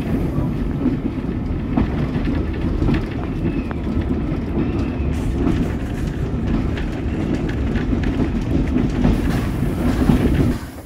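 Heritage steam train's vintage Southern Railway carriages rolling past, steel wheels clattering and clanking over the rails over a steady low rumble, with a couple of faint brief squeals; the sound drops away suddenly near the end.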